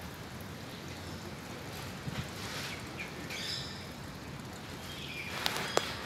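Steady outdoor background hiss with a few brief, high bird chirps in the middle, then sharp clicks near the end.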